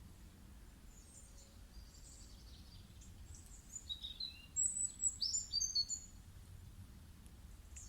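Birds singing over a low, steady background rumble: a run of high chirps and short whistled notes, some falling in pitch, from about three and a half to six seconds in.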